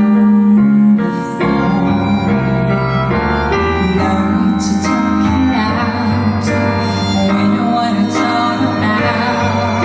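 Harmonica playing a sustained, wavering melody over piano accompaniment in a live ballad performance.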